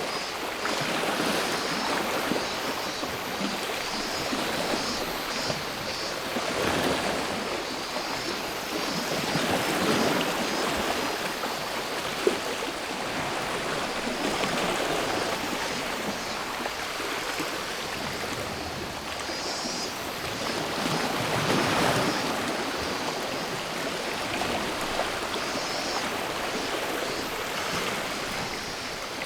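Sea waves washing onto a shore, swelling and falling back every few seconds, with a continuous high shrill of cicadas above them.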